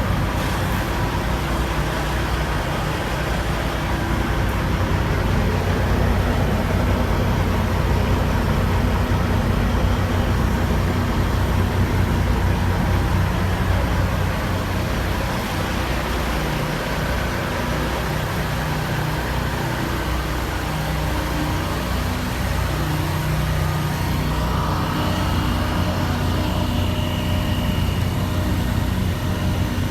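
Diesel engine of a 1999 Kenworth W900 dump truck running steadily, with a low, even engine note throughout that eases slightly about halfway through.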